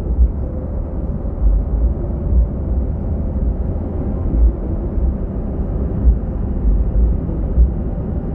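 Inside the cabin of a moving bus: steady engine and road rumble, with uneven low thumps throughout.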